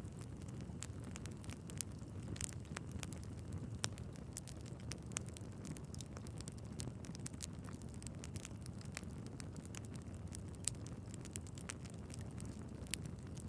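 Wood fire in a fireplace crackling steadily over a low rumble of flame, with frequent small snaps and a few louder pops.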